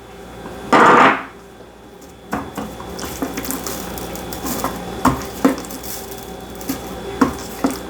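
Kitchen handling sounds from seasoning raw chicken thighs by hand: a brief louder rustle about a second in, then light knocks and clinks against a dish over a faint steady hiss.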